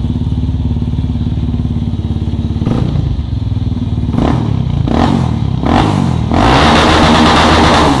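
Yamaha Ténéré 250 single-cylinder engine idling, then blipped with the throttle four times and held at a higher rev for about a second and a half near the end.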